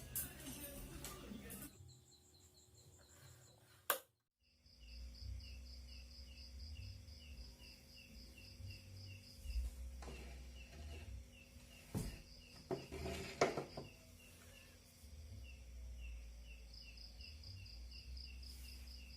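Insects chirping in a steady, regular pulsing trill, a few short knocks about two-thirds of the way through.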